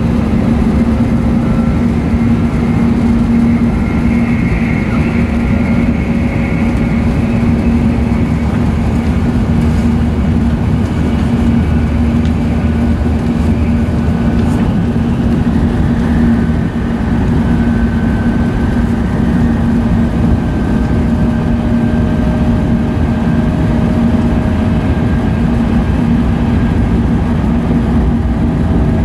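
E5 series Shinkansen train running at speed, heard from inside a passenger car: a steady, loud rolling rumble with a constant hum and faint whining tones that slowly rise in pitch.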